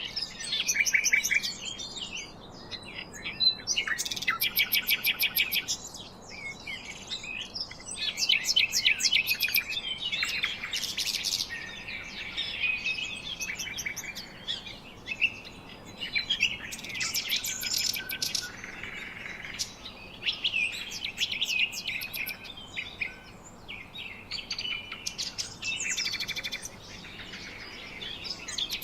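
Several songbirds chirping and trilling together, with rapid runs of high notes overlapping throughout.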